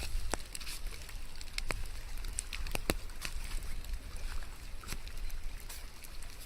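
Rain ambience: irregular sharp ticks and drips of raindrops over a low steady rumble and soft hiss.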